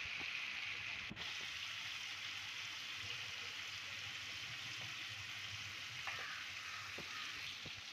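Onion and spice masala with a little water, bubbling and sizzling steadily in a nonstick kadai.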